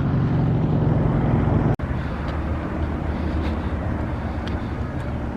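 Steady low rumble of road traffic from a nearby highway. It breaks off for an instant a little under two seconds in.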